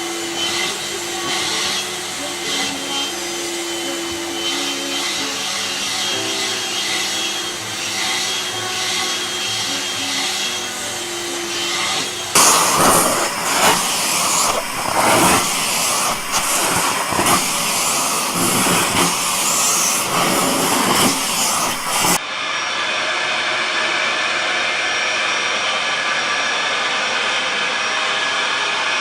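Vacuum cleaner running, across several clips cut together. The middle stretch is louder and uneven, with repeated surges, and the last stretch after a cut is a steady hum.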